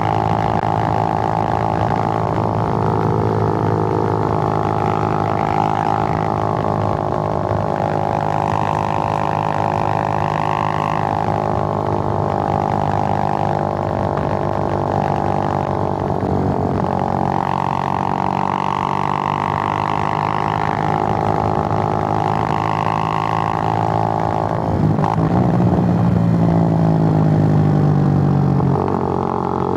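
Suzuki GN125's single-cylinder four-stroke engine running steadily while under way, its note rising and falling with the throttle. About 25 s in it gets louder and deeper for a few seconds, then drops back near the end.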